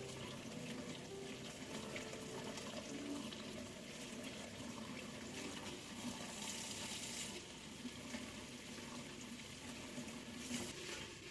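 Water running from a tap into a sink, with louder splashing twice: around the middle and again near the end.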